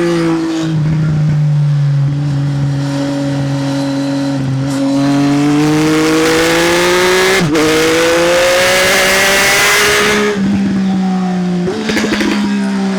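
Triumph Speed Triple's three-cylinder engine through an SC Project exhaust, accelerating with the pitch climbing for several seconds and a quick gear change about halfway through. It then comes off the throttle and falls in pitch, with a short crackle of exhaust pops.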